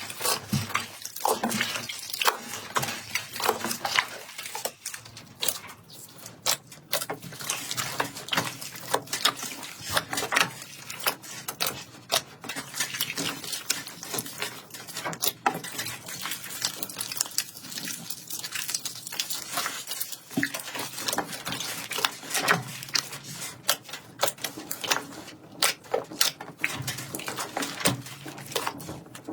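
Slime being squished and pressed by hand: a dense, irregular run of wet clicks and crackles, like small air pockets popping.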